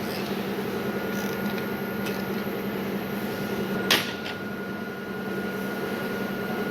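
Workshop machinery, in a lathe shop, running with a steady hum, and a single sharp knock about four seconds in.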